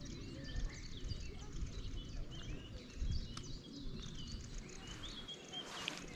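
Small birds chirping and singing, many short, quick whistled notes overlapping, over a low rumble.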